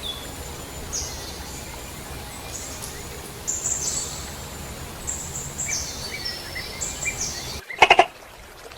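High-pitched chirping calls, several in a row, over steady outdoor background noise. Near the end the background cuts out and a short, loud call is heard.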